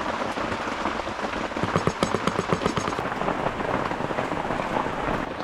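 Heavy rain coming down, a dense, steady patter of drops.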